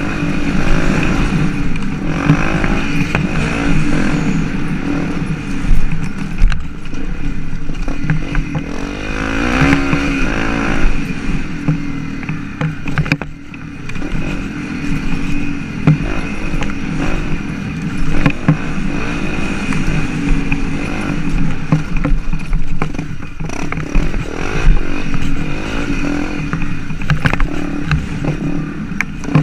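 Motocross bike engine running hard on a dirt track, its pitch rising and falling as the throttle opens and closes, with scattered rattling knocks.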